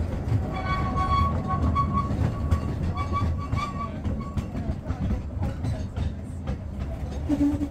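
Narrow-gauge train running, heard from inside a carriage: a steady low rumble with irregular clicks from the wheels over the rail. From about half a second to four seconds in there is a high, wavering squeal from the wheels.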